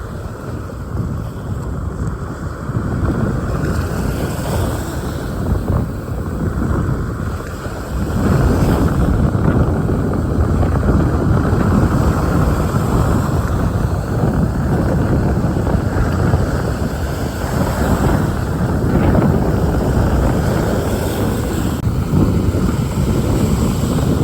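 Wind blowing across the microphone: a steady noise that grows louder about eight seconds in.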